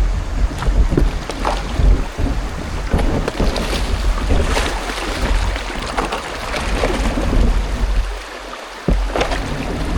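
Kayak paddle strokes splashing and dripping water, with wind rumbling on the microphone.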